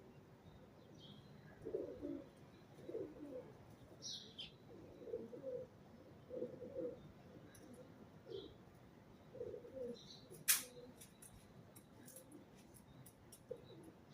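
Pigeon cooing in a run of low, repeated phrases, with a few short high chirps from another bird. A single sharp click, the loudest sound, comes about ten seconds in.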